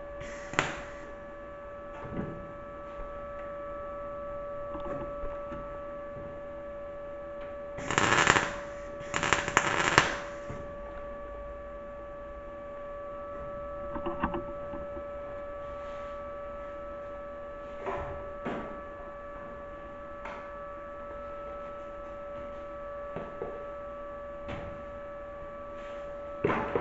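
Steady machine hum, with scattered light clicks and two short, loud bursts of crackling noise about eight and ten seconds in.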